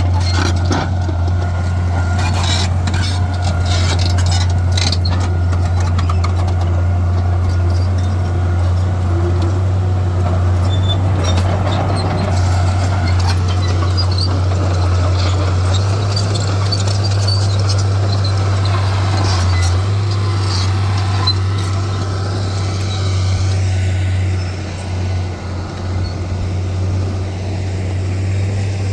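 Diesel engine of heavy earthmoving machinery running with a steady low drone. Scattered clicks and clanks come through in the first several seconds.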